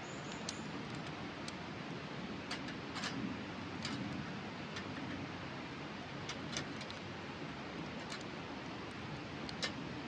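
Steady rush of a river with a wood campfire crackling over it: a few sharp pops at irregular intervals, the loudest near the end.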